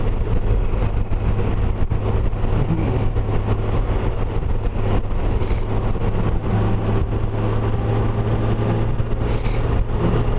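2012 Honda Gold Wing's flat-six engine running steadily at road speed, a constant low hum with no change in pitch.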